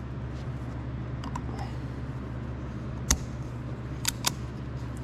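Sharp little clicks of a piston oil ring being worked onto its groove by hand: one about three seconds in, then two close together a second later, over a steady low hum.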